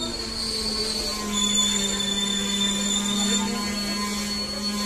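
Indian Railways express train running: a long steady low tone holds throughout, with a thin high squeal over it for about two seconds in the middle.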